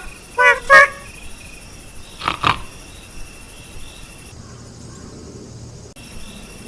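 Field recording of insects chirring steadily, with two short pitched calls about half a second in and two louder short animal calls at about two seconds. The background changes abruptly twice in the second half, where the footage is cut.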